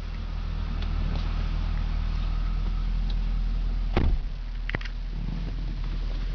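Supercharged 6.2-litre V8 of a 2011 Cadillac CTS-V idling steadily, heard from inside the cabin. A single loud thump comes about four seconds in, followed shortly by a couple of sharp clicks.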